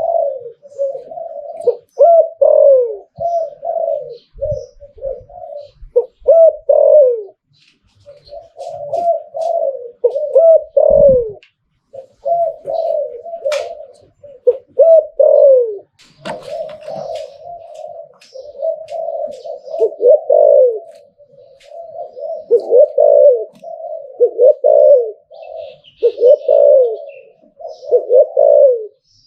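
Spotted dove (Thai 'nok khao yai') cooing over and over in phrases of rolling coos with brief pauses between them, the 'liu tan' song style prized by Thai dove keepers. A couple of faint low thumps come partway through.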